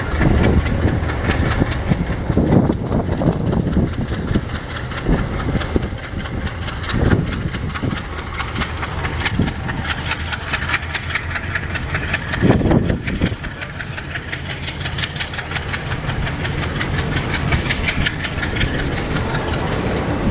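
ALCO diesel locomotive engine running with a steady low rumble and a fast regular clatter, with three brief louder low surges spread through.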